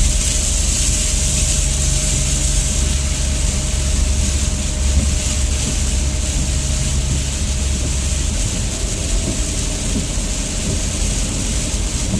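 Steady car noise from inside the cabin, driving on a wet road in rain: a hiss of tyres on wet pavement and rain over a low road and engine rumble, which eases a little about eight seconds in.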